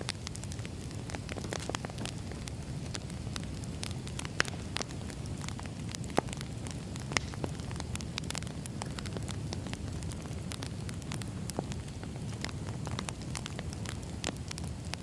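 Wood fire burning steadily, a low rumble of flames under constant irregular crackling, with a few louder pops.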